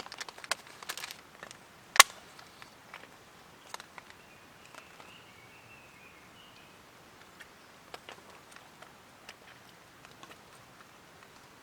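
A quick run of small clicks and taps, then one sharp click about two seconds in, followed by a few sparse faint ticks. A faint, wavering high call is heard in the middle.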